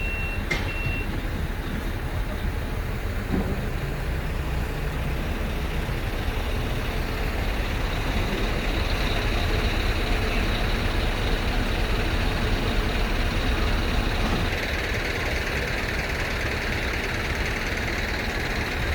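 Heavy truck engine running with a steady rumble. A reversing beeper gives its last few short beeps about a second in.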